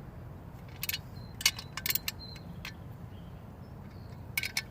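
Wrench working on the nut and bolt of a motorcycle exhaust bracket: a few scattered, irregular sharp metal clicks and clinks, with a short cluster near the end.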